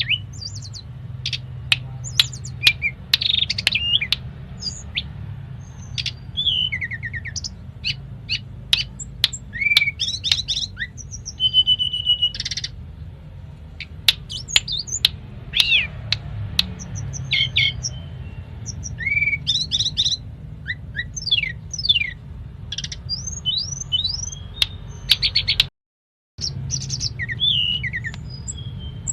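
Tledekan gunung (hill blue flycatcher) singing a busy, varied song of sharp chirps, whistled glides and short trills, worked through with phrases mimicked from other birds such as the magpie-robin and canary. A low steady hum runs underneath, and the sound cuts out briefly near the end.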